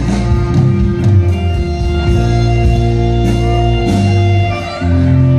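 Live band music with no singing, a guitar-led instrumental passage of held chords that changes chord near the end.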